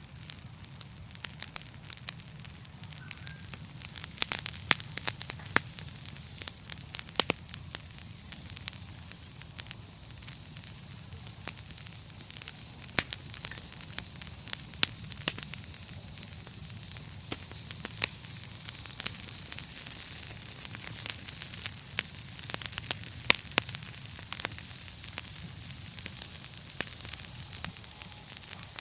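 Wood fire crackling: many sharp, irregular pops and snaps over a steady hiss and a low rumble of flame.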